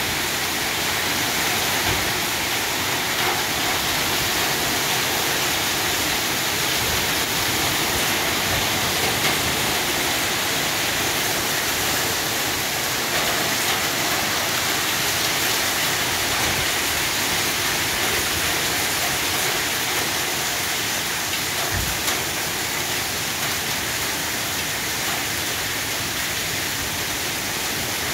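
Steady rain falling, an even hiss of water throughout, with a brief low knock about 22 seconds in.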